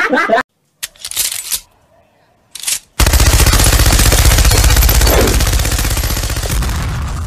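A very rapid, continuous rattle like machine-gun fire starts about three seconds in and slowly fades out. Two short noisy sounds come before it.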